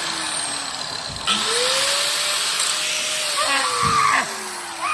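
Power tool running hard: a loud, steady hiss with a whine that slides slowly down and up in pitch.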